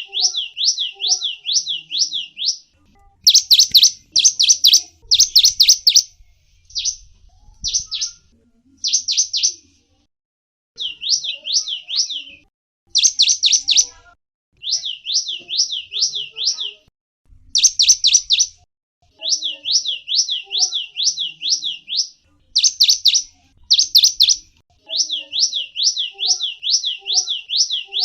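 A gelatik wingko songbird singing: rapid strings of high, sweeping chirps, about four to five notes a second, in bursts of one to two seconds with short pauses between. Some bursts are louder and sharper than the rest.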